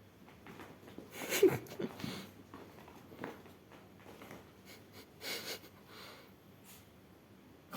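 Pet cat making a series of short breathy snorts and sniffs, the loudest about a second and a half in.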